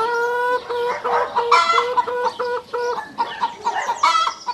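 Hen cackling: a run of short, even clucks, about three a second, broken by longer, louder calls at the start, about one and a half seconds in, and near the end.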